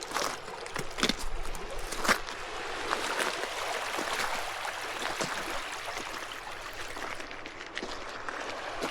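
Water running and trickling over rocks in a steady hiss, with a few sharp clicks or crunches in the first couple of seconds.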